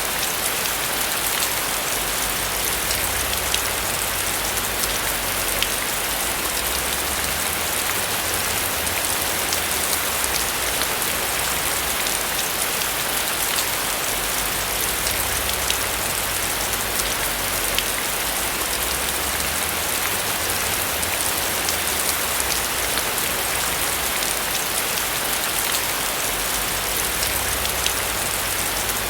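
Steady rain falling on a roof: a dense, even hiss full of fine individual drop ticks, with a soft low rumble underneath.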